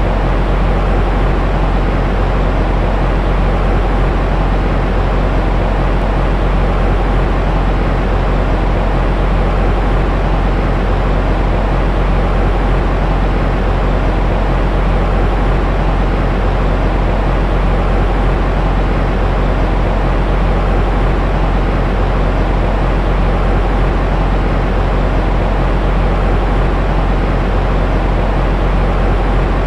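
Steady, unbroken white noise played as a baby sleep aid, heavy in deep rumble and thinning out in the highs, with no change in level.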